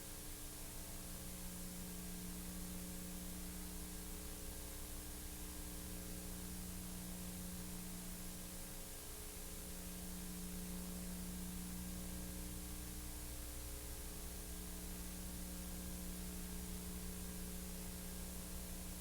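Steady electrical hum with hiss and no other sound, typical of a silent film transfer with no soundtrack.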